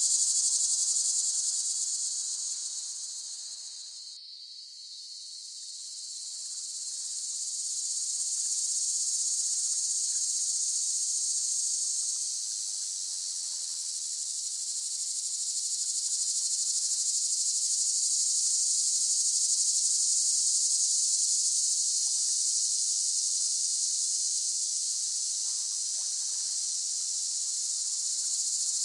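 Cicadas buzzing in a dense, steady, high-pitched chorus. The sound dips sharply about four seconds in, then swells back to full strength.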